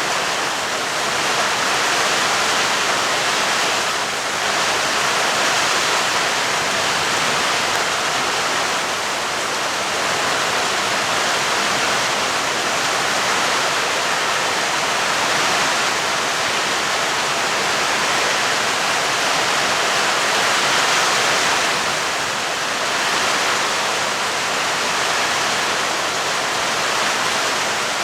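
Steady heavy rain falling, an even, unbroken hiss with slight swells in level and no thunderclaps.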